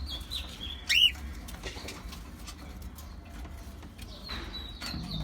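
Cockatiels giving short, high whistled chirps: a few at the start, one louder arched chirp about a second in, and more near the end, over a low steady rumble.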